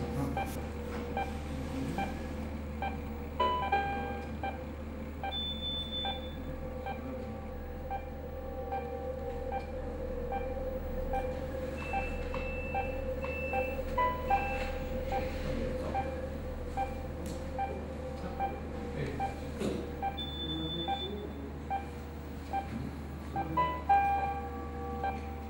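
Electronic tones: a steady drone with a short beep repeating about one and a half times a second, and now and then a longer, higher tone.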